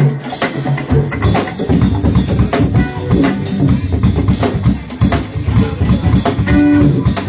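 Live rock band playing, with drum kit and bass.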